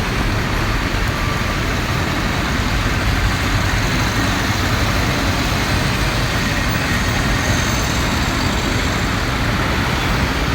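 Steady road traffic noise: vehicle engines and tyres on a busy street, an even rumble and hiss with no single event standing out.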